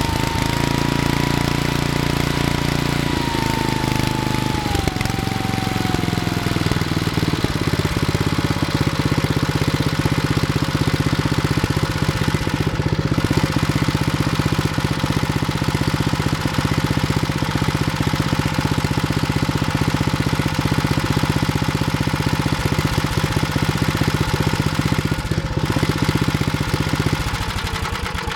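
Briggs & Stratton 7 hp single-cylinder tiller engine running steadily and evenly, a sign of an engine in good running order; its pitch drops in the first few seconds as it settles to a lower speed. Near the end it is shut off and winds down to a stop.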